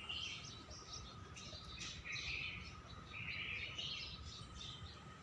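Small birds chirping in short irregular bursts, over a faint steady high tone and low hum.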